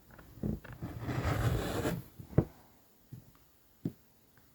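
Fabric being cut along a measured line: a scraping, rustling cut lasting about a second, then a sharp tap and, near the end, a lighter knock.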